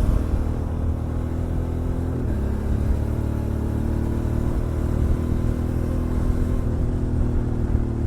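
Motorcycle engine running steadily under way with road and wind noise; its pitch steps down slightly about two seconds in.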